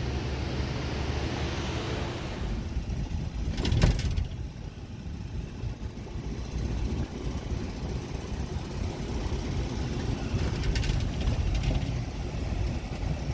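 Vehicle engine running with a steady low rumble, a hiss that fades a couple of seconds in, and a sharp clatter about four seconds in.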